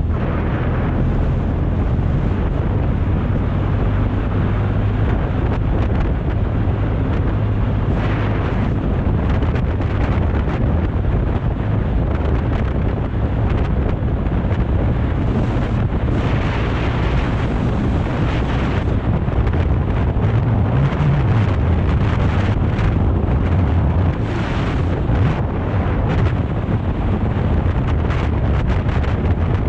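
Wind rushing over the microphone of a moving BMW R 1250 GS motorcycle, with the bike's boxer-twin engine running steadily underneath.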